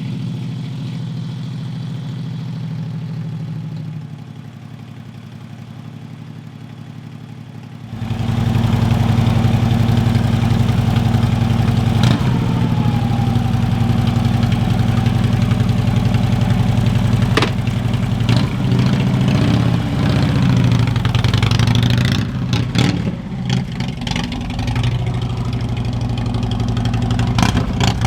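Harley-Davidson Road King's V-twin engine running just after start-up, idling steadily at first. About eight seconds in it becomes much louder, and later its engine speed rises and falls.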